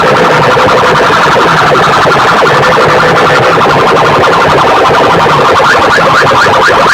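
Large PA sound system playing at extreme volume, distorted music mixed with siren-like electronic effect tones. Near the end, a fast run of short rising chirps repeats several times a second.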